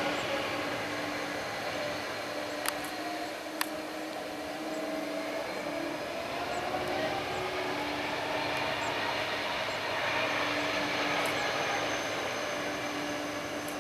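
Jet engines of an Airbus A330-200 running, with a whine that rises slowly in pitch through the middle. Two short clicks come about three seconds in.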